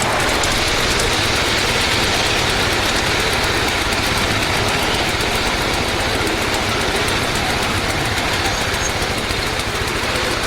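Ride-on miniature railway train running steadily: a small engine's rapid, even beat under continuous wheel and track noise.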